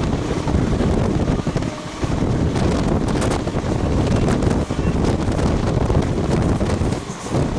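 Wind buffeting the microphone over the steady rumble of a moving passenger train. The low buffeting dips briefly about two seconds in and again near the end.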